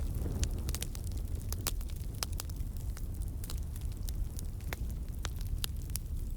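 Campfire burning, with frequent sharp, irregular crackles and pops over a steady low rumble of flame.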